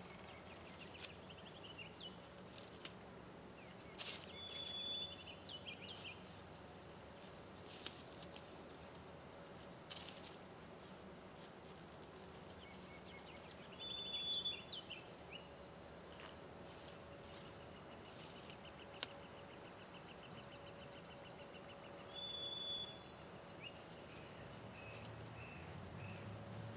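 A songbird sings the same short whistled phrase three times, about nine seconds apart: a brief note, then a longer, steady, higher whistle. Scattered light taps and scrapes and a faint steady hum sound underneath.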